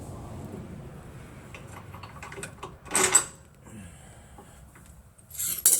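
Metal suspension parts being handled: a rear control arm clunking and scraping as it is worked into its mounts, with two short, loud scrapes about three seconds in and near the end.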